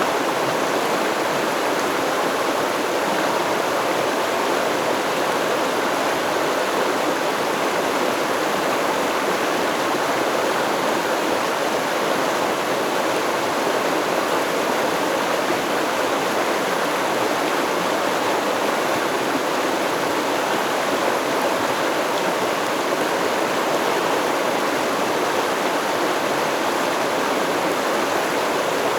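Stream water flowing and babbling steadily over rocks, an even rushing wash with no change in level.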